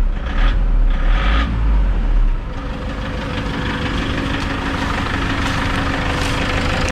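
Toyota Innova D-4D diesel engine with an abnormal knock, revved in short surges for about two seconds and then settling to a steady idle. The knock grows louder on the throttle and sounds like injector nozzle or pump trouble; the fault codes point to the manifold absolute pressure (MAP) sensor.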